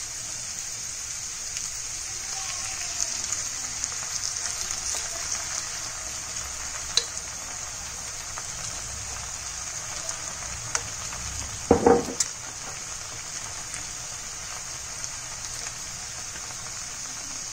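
Onions and capsicum frying in oil in a kadhai: a steady sizzle with small crackles. A short knock about twelve seconds in is the loudest sound.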